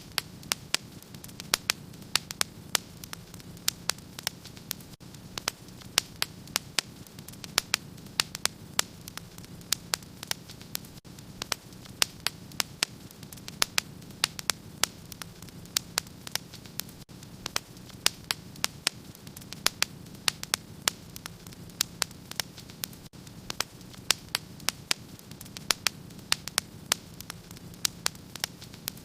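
Wood fire crackling in a fireplace: frequent sharp pops and snaps at uneven intervals over a steady low rumble of the burning fire.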